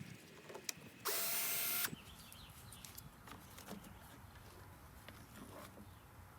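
Power drill or driver runs in one short burst about a second in, with a whirring tone that rises slightly, then faint scattered clicks of handling parts.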